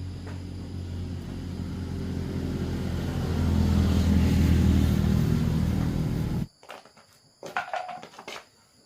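A vehicle engine running and growing louder, then cutting off suddenly about two-thirds of the way through, followed by a few short clicks.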